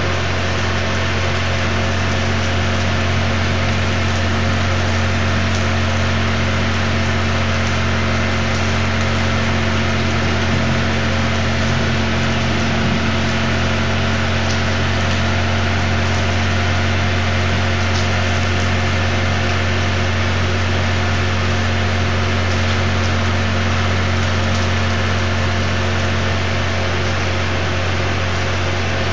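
Steady rain falling, an even hiss, over a constant low hum.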